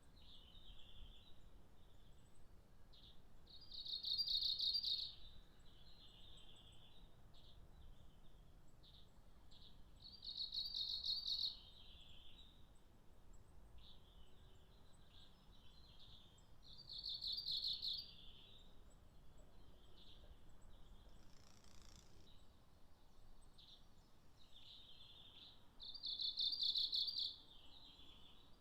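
Japanese leaf warbler singing: four loud phrases, each a rapid trill of repeated notes lasting about a second and a half, spaced six to nine seconds apart. Fainter high chirps come in between the phrases.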